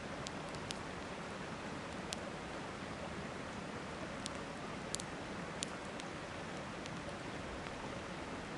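Steady rush of river water with a wood campfire crackling, giving a handful of sharp pops scattered irregularly over the steady flow.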